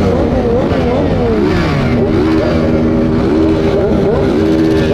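Several motorcycle engines running and revving at once, their pitches rising and falling and overlapping, over a steady low engine rumble.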